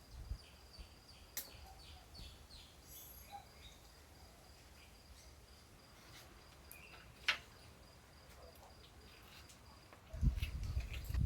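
Faint countryside ambience: a steady high insect trill with scattered short bird chirps and clicks, and one sharp click about seven seconds in. A low rumble starts near the end.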